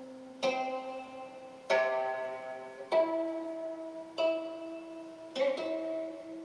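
Gayageum played slowly: five single plucked notes about a second and a quarter apart, each ringing on and fading before the next.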